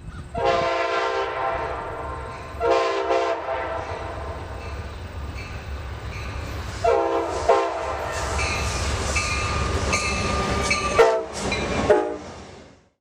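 Diesel locomotive air horn sounding several blasts, the first long, over the low rumble of a passing train; it fades out near the end.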